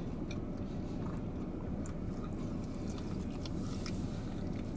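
Two people chewing mouthfuls of cheesesteak and hoagie, with short scattered wet mouth clicks over a steady low hum inside a car.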